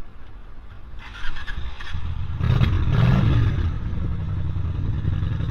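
A motor vehicle engine comes in about two seconds in, swells briefly, then runs steadily with a low hum. It follows a short scraping clatter about a second in.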